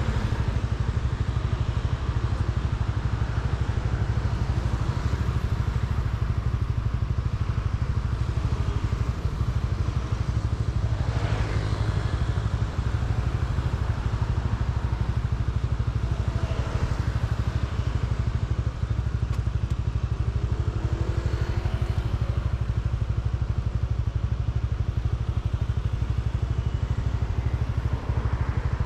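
Motorcycle running steadily at riding speed, a continuous low engine and wind rumble with road noise, as other traffic passes by three times.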